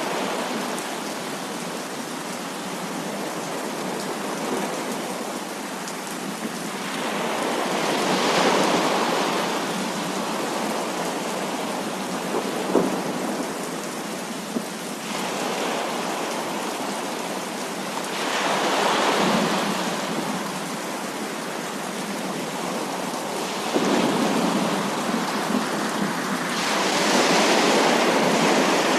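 Heavy rain pouring steadily, with rolls of thunder swelling up and fading several times, each over a second or two. Two brief sharp ticks come a little before halfway.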